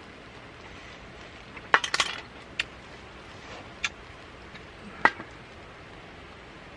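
A few sharp clinks and knocks of camp cookware and utensils: a quick cluster about two seconds in, then three single clicks spaced about a second apart, over a steady hiss.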